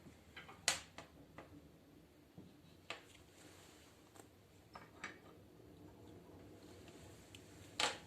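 Wood fire crackling in a fireplace stove: scattered sharp pops and snaps at irregular intervals, the loudest one near the end.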